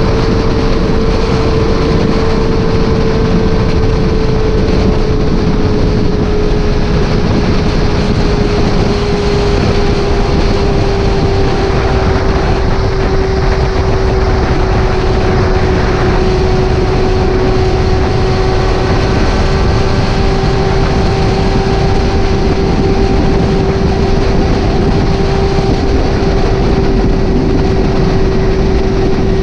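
Motorcycle running at a steady cruise under heavy wind rush, its engine hum easing slightly lower in pitch over the first several seconds.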